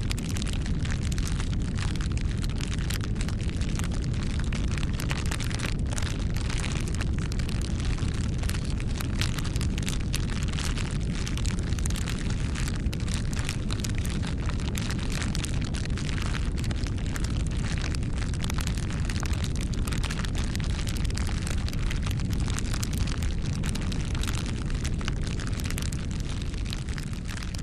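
Campfire burning: irregular wood crackles and pops over a steady low rumble of flames.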